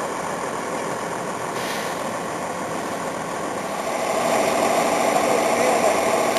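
Vehicle engine running steadily, getting louder about four seconds in.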